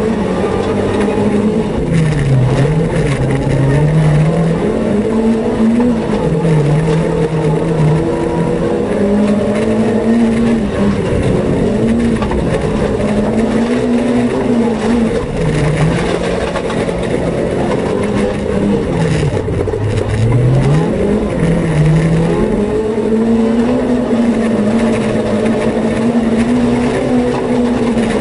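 Renault Twingo rally car's engine heard from inside the cabin, driven hard on dirt: it revs up and drops back again and again through gear changes and lifts, with one deep drop and climb about two-thirds of the way in, over steady road noise.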